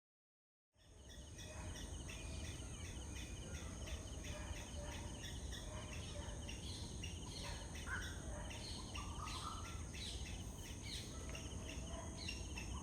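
Wetland ambience: a steady high insect drone with many short bird calls and chirps over it, and a low rumble underneath. It fades in from silence just under a second in.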